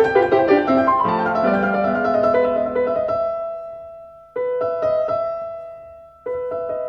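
Background piano music. The notes fade away about halfway through and then start again abruptly twice, like a looped track.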